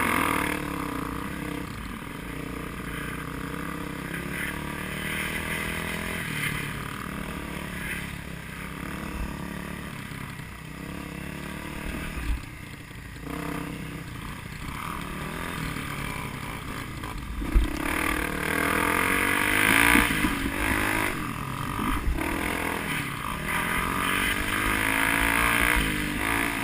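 Vehicle engine running and revving, its pitch falling and rising again several times as it accelerates; the loudest, rising stretch comes about two-thirds of the way in.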